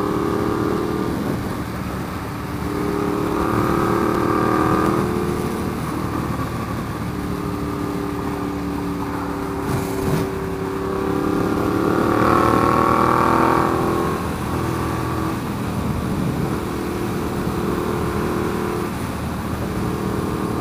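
Ducati Diavel's L-twin engine pulling hard twice, its pitch rising around three to five seconds in and again around twelve to fourteen seconds in, then dropping back to a steady cruise. Steady wind rush runs underneath.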